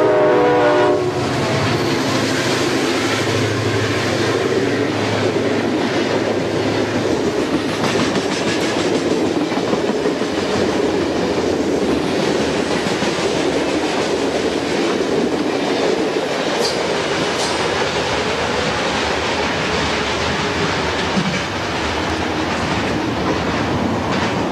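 A train horn sounds and cuts off about a second in, then a passing train's wheels run steadily over the rails with a continuous rumble and clickety-clack.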